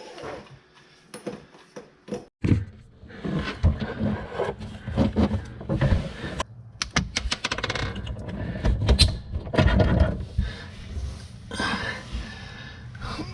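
Hand tools and metal plumbing parts being handled under a kitchen sink: irregular clinks, rattles and scrapes, with a quick run of clicks about seven seconds in.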